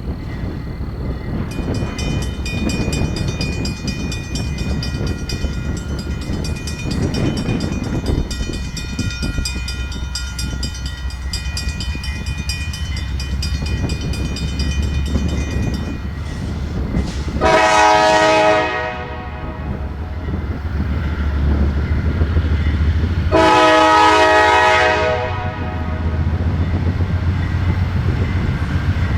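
Freight train's diesel locomotives rumbling past, with fast high ticking and thin squealing from the wheels on the rail for most of the first half. Then the locomotive horn sounds twice, a shorter blast and a longer one about five seconds later, with a third blast just beginning at the end.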